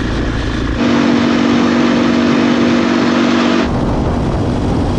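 Motorcycle engine running at a steady speed with wind noise while riding, a louder steady-pitched drone through the middle seconds.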